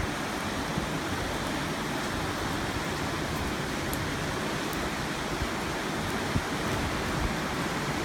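Heavy rain pouring down steadily, a dense even hiss, with a few brief low bumps.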